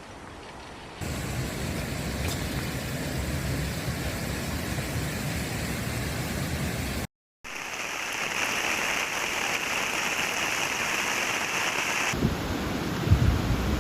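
Storm ambience of heavy rain and rushing water, cut together from several clips, with a brief dropout about seven seconds in. Near the end, wind gusts buffet the microphone.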